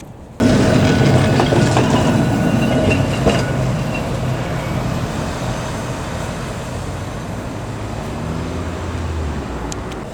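Heritage electric tram running along its rails, with wheel and track noise and a low hum. It starts suddenly about half a second in and slowly fades.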